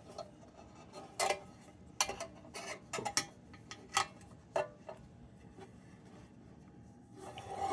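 Scattered light metallic clicks and clinks from the small sheet-metal parts of an Embury Midget cold-blast lantern being handled and fitted together, irregular, about a dozen over several seconds.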